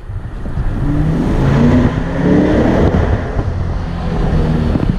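A sports car's engine accelerating hard, its note climbing, dropping back about two seconds in and climbing again, as through an upshift.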